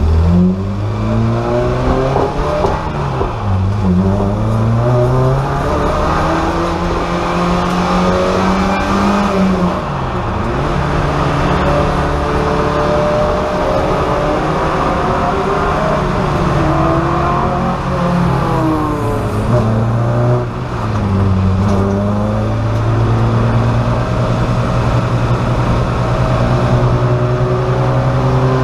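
VW Golf race car's engine heard from inside its stripped cabin, revving hard and rising in pitch, then dropping sharply several times as it changes gear or lifts off. Over the last several seconds it holds a steady high rev.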